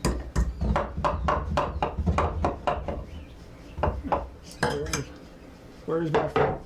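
A quick run of sharp metallic clinks and knocks, about four a second for the first three seconds, then a few more scattered ones, as of tools or hardware being handled on a workbench.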